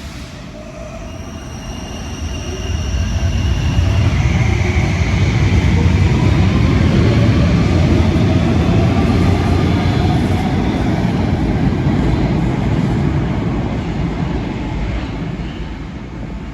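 Brussels metro train pulling away and running: the electric traction motors' whine rises in pitch as it accelerates over the first few seconds, then the wheels' running rumble holds steady and eases off near the end.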